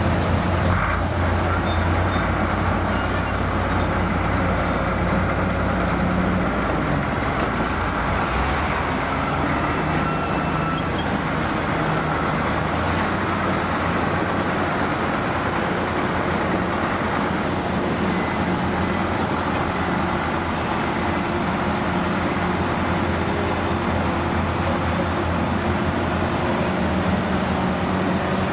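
Diesel engine of a heavy vintage truck or machine running steadily, its pitch shifting briefly about seven to nine seconds in.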